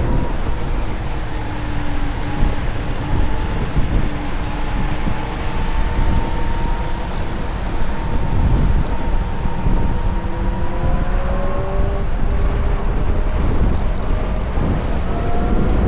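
Wind buffeting the microphone while riding a VMoto Stash electric motorcycle through traffic, a steady low rushing noise. Faint whining tones drift slowly up and down in pitch underneath.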